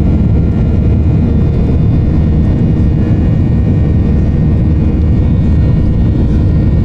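Cabin noise of a Boeing 737-800 climbing out after takeoff: a steady low roar from its CFM56-7B engines and the airflow, with faint steady whining tones above it.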